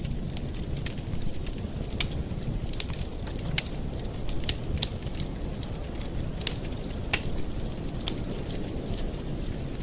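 Campfire burning: a steady low rush of flames with sharp wood crackles and pops at irregular intervals.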